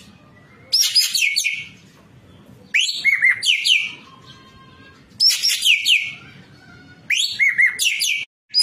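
Ekek keling singing in four loud bursts about two seconds apart, each a quick run of sharp, high whistled and chattering notes that sweep down in pitch. This is the vigorous, varied song that bird keepers call gacor, full isian.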